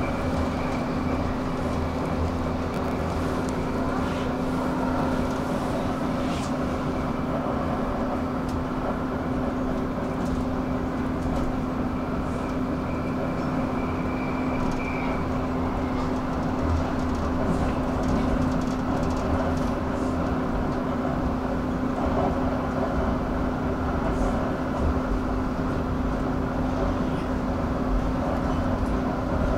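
Light-rail train running at a steady speed: an even rumble of wheels on track under a steady low hum. A faint high whine is there through about the first half.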